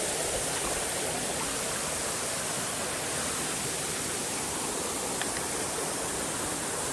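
Steady rush of a waterfall and its stream, an even roar of falling and flowing water.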